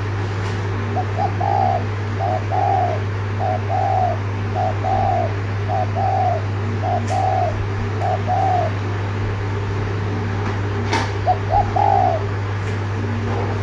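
Spotted dove cooing in the rapid 'thúc gù' style: a quick run of short two-part coos, about one a second, then a pause and a few more coos near the end. A steady low hum and a single click lie underneath.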